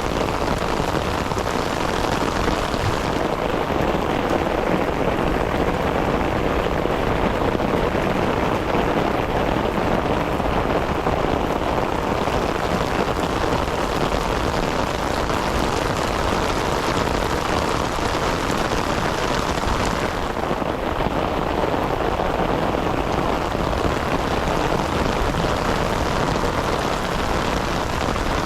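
Heavy rain falling steadily, a dense even hiss of drops on the ground and foliage. The highest part of the hiss thins out for a while about three seconds in and again about twenty seconds in.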